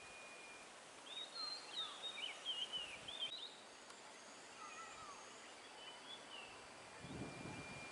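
Wild birds calling: a run of quick, warbling whistled notes from about one to three and a half seconds in, fainter calls a little later, over faint background hiss. A low rustling noise comes in near the end.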